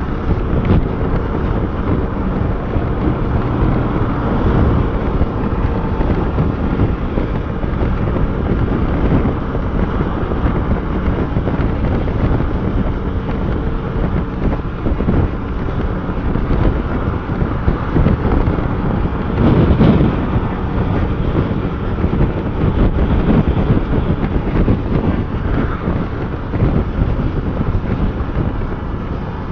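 Motorcycle engine running steadily under way, with wind rumbling on the microphone.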